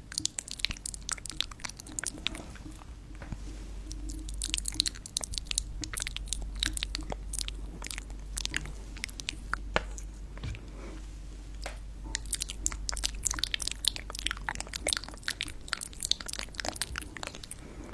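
Close-miked ASMR crunching: a dense, irregular run of sharp crackles and clicks, thinning out briefly about two-thirds of the way through before picking up again.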